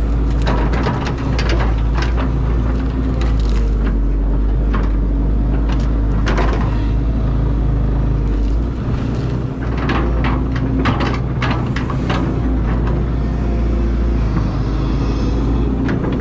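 Caterpillar excavator's diesel engine running steadily, with scattered sharp clanks and knocks from the machine at work.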